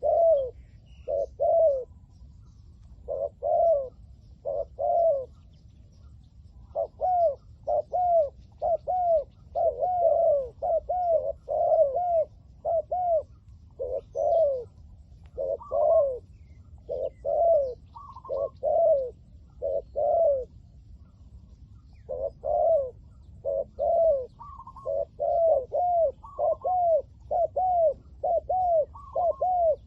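Spotted doves cooing: a long run of short, repeated coos, each note dipping in pitch, broken by a few brief pauses.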